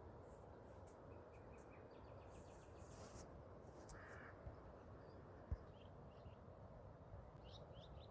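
Faint, short bird chirps over a quiet background hiss, with one brief low thump a little past halfway.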